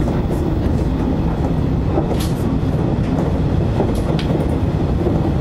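JR electric train running along the track, heard from inside the front car: a steady low rumble of wheels on rail, with a few short sharp clicks about two and four seconds in.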